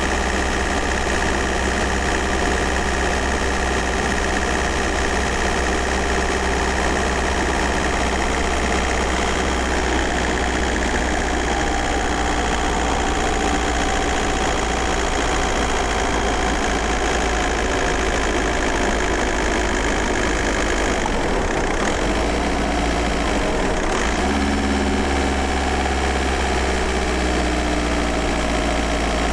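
Volkswagen Golf Mk4 4motion's 1.9 TDI four-cylinder turbodiesel running, heard from inside the cabin, with diesel clatter. Engine speed drifts gently, with a couple of brief dips a little past two-thirds of the way through.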